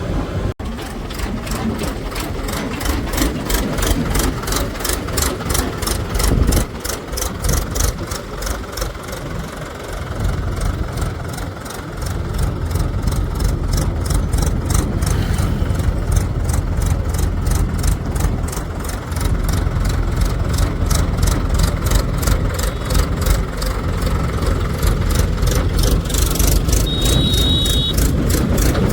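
Heavy diesel engines of tractors and a backhoe loader running while they work in mud, with a brief high tone near the end.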